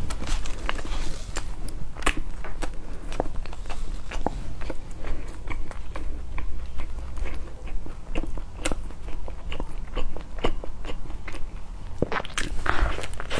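Close-miked biting and chewing of bread, with many small crisp crunching clicks as a sesame-crusted bread ring is torn by hand and eaten. A bigger bite comes near the end.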